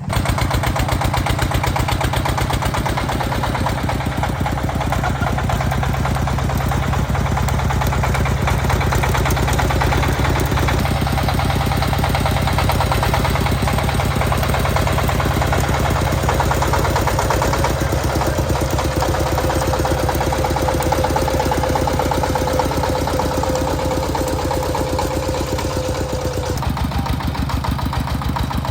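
Tractor engine running steadily with a fast, even chugging. In the second half a whining tone slowly rises in pitch and stops a couple of seconds before the end.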